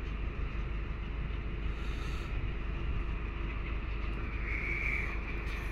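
Train running past on the rails: a steady rolling rumble with a hiss from the wheels.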